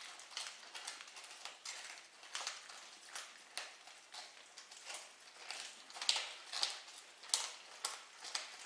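Kitten eating food, with small irregular crunching clicks a few times a second, a little louder about six to seven seconds in.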